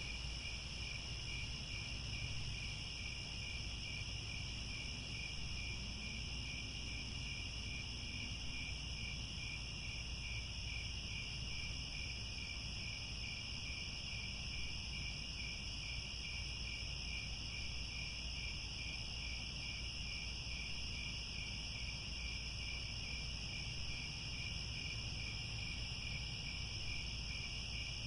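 Crickets chirping in a dense, steady chorus, a high-pitched trill with a fine even pulse that never lets up.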